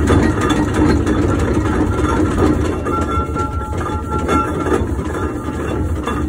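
1914 Fowler showman's steam road locomotive running, a steady low mechanical rumble, with a faint high tone from about three seconds in until nearly five seconds.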